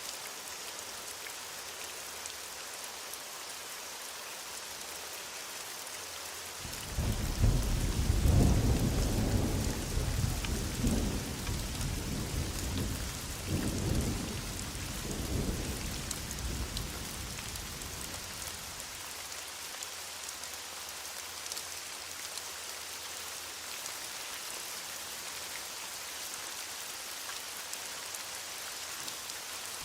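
Steady heavy rain, with a roll of thunder that breaks in suddenly about a quarter of the way through, rumbles in several surges and dies away around two-thirds of the way in.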